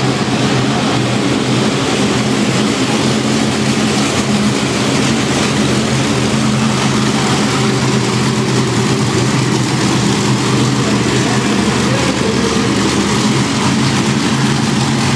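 Monster truck engine running loud and steady, a deep even drone with a harsh noisy edge.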